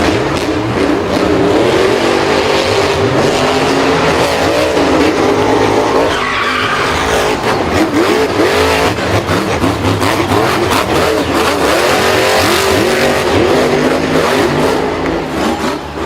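Several racing vehicle engines revving together, their pitches rising and falling over one another, with tyre squeal and skidding noise.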